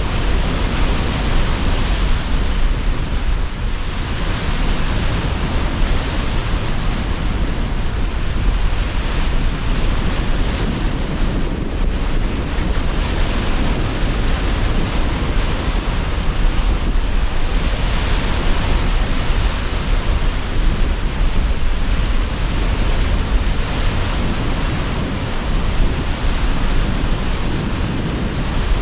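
Sea surf breaking continuously under strong gusting wind, a dense roar of rushing water and wind with a heavy low rumble, swelling and easing slowly.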